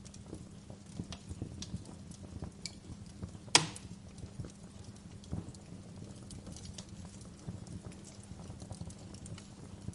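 Wood fire crackling: irregular small pops and snaps over a low steady background, with one sharp, much louder pop about three and a half seconds in.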